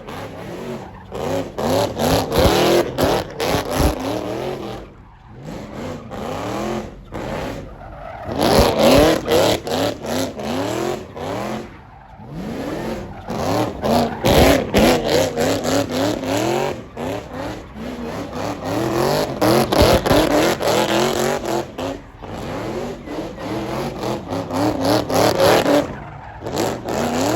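Car engine revved hard over and over, its pitch climbing and dropping in quick bursts, with short lulls between runs.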